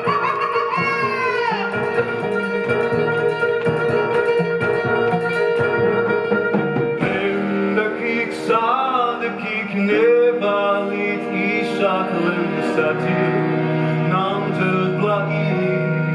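Live ensemble music: plucked guitar with sustained string tones, and melodic lines that slide and bend in pitch. The texture changes about seven seconds in, with a steady low note entering underneath.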